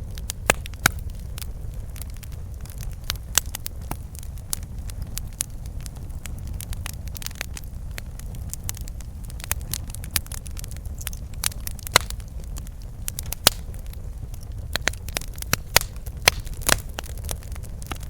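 Campfire burning, wood crackling and popping at irregular intervals over a steady low rumble of the flames, with a few louder sharp pops scattered through.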